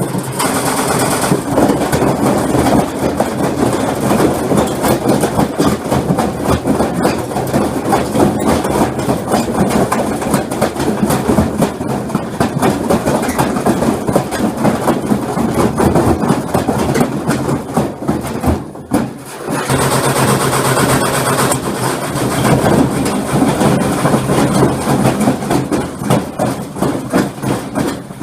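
Washing machine running a spin with heavy objects loaded in the drum: a continuous loud banging and rattling from the badly unbalanced load. It drops out briefly about two-thirds of the way through, then starts again.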